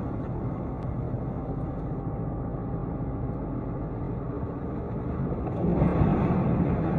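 Motor vehicle running, a steady engine and road rumble that grows louder about six seconds in.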